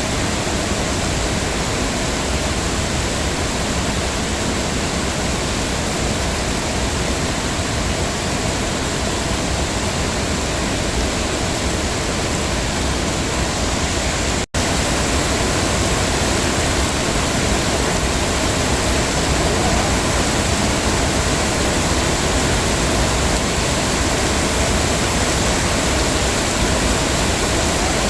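Heavy rain falling steadily, a dense even hiss. It cuts out for an instant about halfway through, like a splice in the recording.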